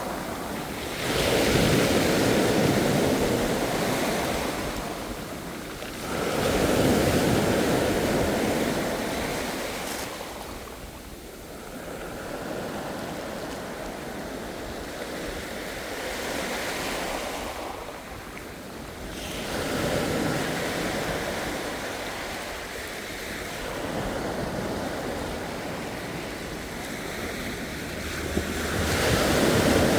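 Ocean waves breaking and washing ashore in repeated surges, each swelling up and fading out, several seconds apart, with some wind.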